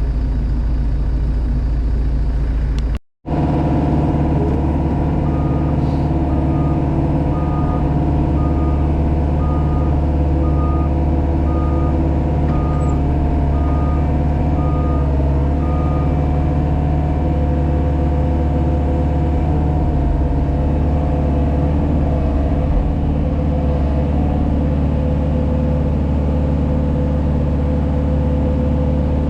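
JCB Pothole Pro's diesel engine running steadily, heard from inside the cab, with a wavering tone over the engine hum. A reversing alarm beeps about once a second for roughly ten beeps, starting a few seconds in.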